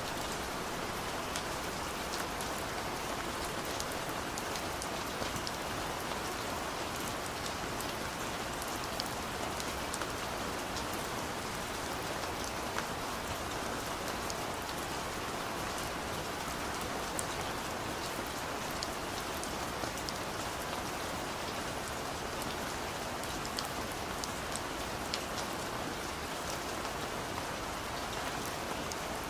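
Steady rain drumming on a car's roof and windows, heard from inside the car, with individual drops ticking sharply all through.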